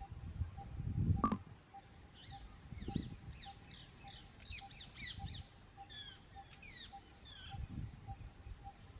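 Birds giving a quick run of short, high chirps that slide downward, over a faint beep repeating about twice a second. A low thump with a click about a second in is the loudest sound, with lighter low thumps later.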